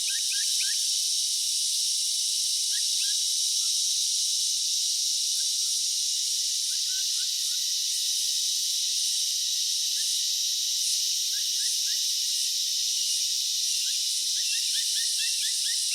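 A dense insect chorus as a steady high hiss, with trains of short, quick chirps at the start and again near the end.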